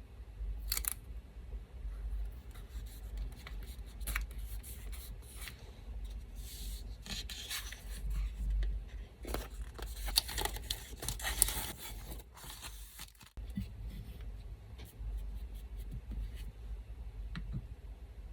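Paper crafting: small scissors snipping and paper rustling, busiest in the middle of the stretch, over the steady low hum of an electric fan.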